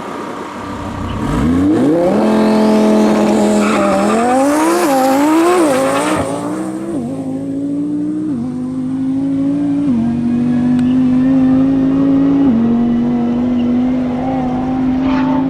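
Twin-turbo Lamborghini Huracan's V10 launching and accelerating hard. The revs climb steeply, then surge up and down for a couple of seconds, followed by a series of upshifts, each a sudden drop in pitch before the revs climb again.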